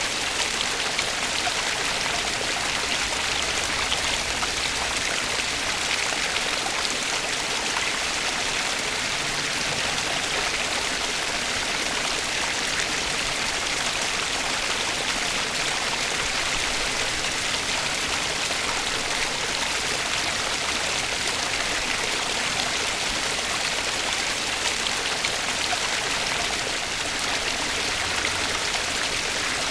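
Flowing water in a stream, an even steady rush with no breaks or changes.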